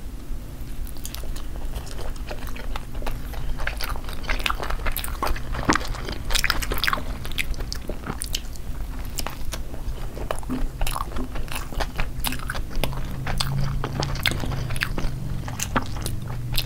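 Two people biting into and chewing slices of cheesy chicken pizza: crust crunching and wet chewing, with many small irregular clicks throughout.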